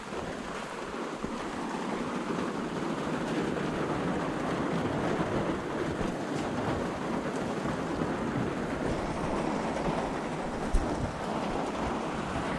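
Heavy rain falling in a storm, with wind: a steady rushing noise. A single brief knock comes near the end.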